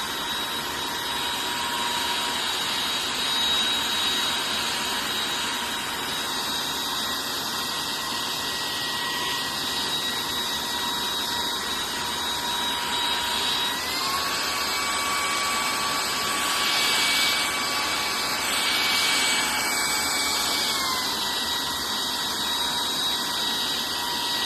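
Jashen V18 cordless stick vacuum running on carpet, a steady motor whine over a rushing of air. About fourteen seconds in the pitch steps up slightly and holds for about seven seconds before dropping back: the motor getting stronger, then weaker, as the dust-sensing auto mode changes suction.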